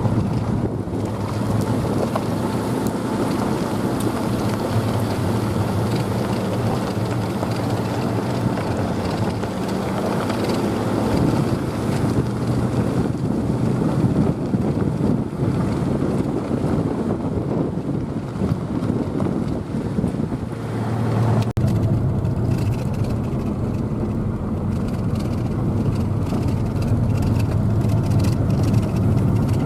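Motor vehicle running steadily on the move: a low engine drone under road and wind noise, dipping briefly a little after twenty seconds and then running a little stronger.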